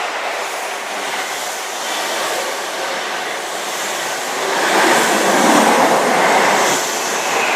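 InterCity 125 High Speed Train (HST) running through the station at speed without stopping: a loud, screaming rush of the train passing, growing louder again from about halfway through.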